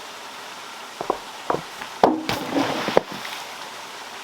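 A few sharp knocks, then about a second of louder clattering knocks, over the steady hiss of running water.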